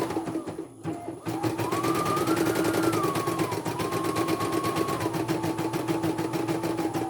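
Computerized embroidery machine stitching: a fast, even run of needle strokes over a steady hum and a motor whine that wavers in pitch. It stops briefly about half a second in, then starts again and runs on.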